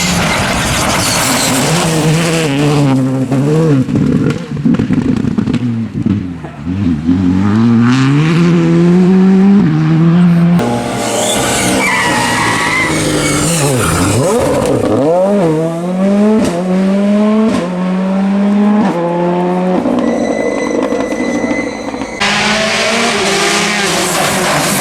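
R5-class rally cars' turbocharged four-cylinder engines at full effort past the spectators, the engine pitch climbing and dropping in steps as they shift gears, brake and accelerate. Several passes follow one another with abrupt changes about a third and nine-tenths of the way through.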